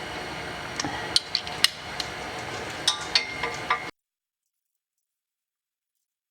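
Metal hand tools clinking and knocking against steel exhaust header tubes and bolts while the header bolts are tightened: several sharp clinks over a steady background hiss. The sound cuts off abruptly about four seconds in.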